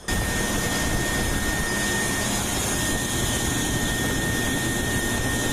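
Steady, loud machine noise with a constant high whine, cutting in suddenly at the start.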